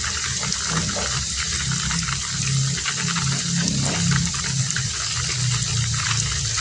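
Heavy rain falling steadily, a dense hiss of drops with a low, choppy throb underneath.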